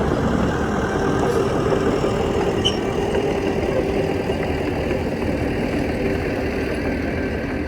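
Heavy diesel engine of an earthmoving machine running steadily, without revving.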